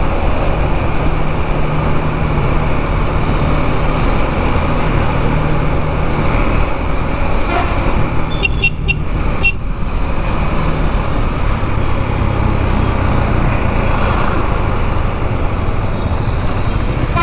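Riding a KTM Duke 390 in road traffic: the single-cylinder engine runs under steady wind and road noise. Brief horn toots come about eight to nine and a half seconds in.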